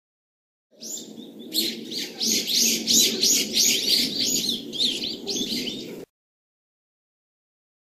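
A bird singing a quick series of repeated high chirping notes, about three a second, over a low steady background noise. The sound starts under a second in and cuts off abruptly about six seconds in.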